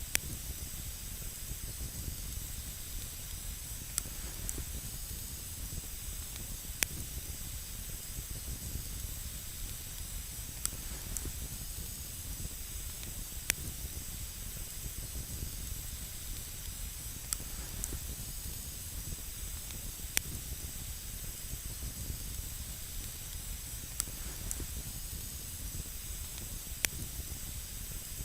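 Campfire burning on snow: a steady hiss and low rumble of the flames, broken by sharp single crackles from the burning wood about every two seconds.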